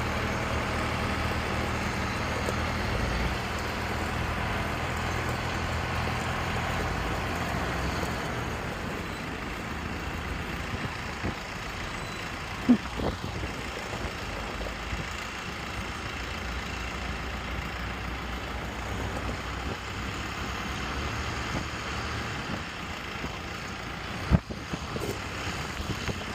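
Tractor engines running as a convoy of tractors moves off, a steady engine hum with brief sharp knocks about halfway and just before the end.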